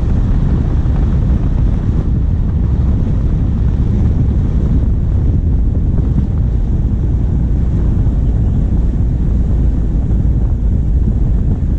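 Steady low rumble of a diesel vehicle driving, heard through a bonnet-mounted camera, with wind buffeting the microphone over the engine and tyre noise.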